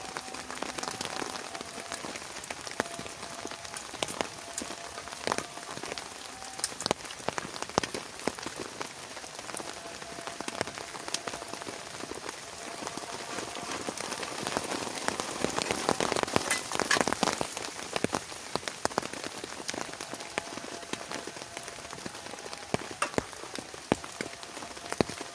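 Heavy rain falling, with many sharp individual drops striking close by over a steady wash; the downpour swells louder for a few seconds past the middle.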